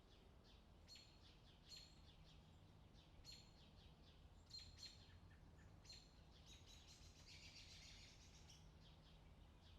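Faint birdsong: short high chirps repeat about once a second, then a longer rapid, trilling phrase comes a little past halfway, over a faint low hum.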